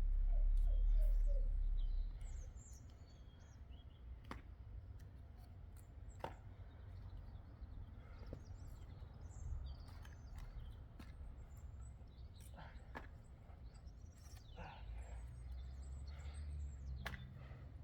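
Small birds chirping here and there over a low rumble that is loudest in the first two seconds, with a few faint, sharp knocks scattered through.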